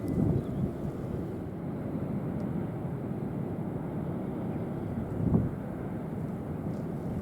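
Wind buffeting the microphone over a steady low rumble, with a small gust about five seconds in.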